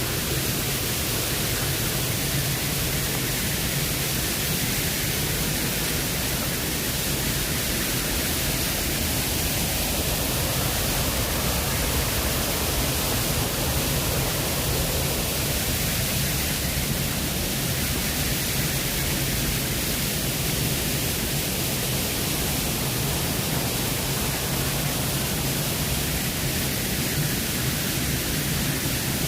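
Waterfall cascades: a steady, loud rush of falling water with no breaks.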